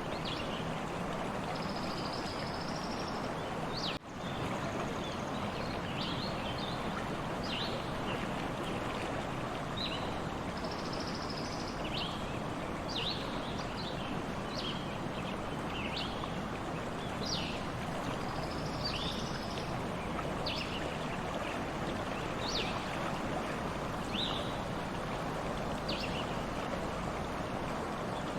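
A stream running steadily, with birds calling over it in short high chirps about once a second and a few longer buzzy notes. The sound cuts out for an instant about four seconds in.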